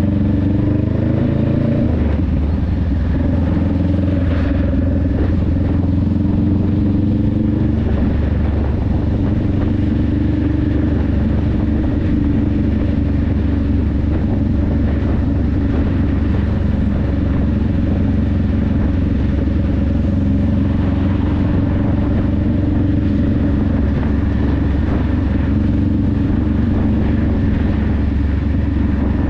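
Honda Rebel 500's parallel-twin engine and exhaust under way. The pitch climbs, drops sharply about two seconds in, then holds steady at an even cruising speed.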